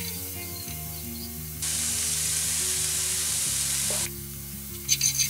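Diced red peppers sizzling in a hot, dry non-stick frying pan with no oil: a steady hiss from about a second and a half in until about four seconds, then sharp crackles near the end.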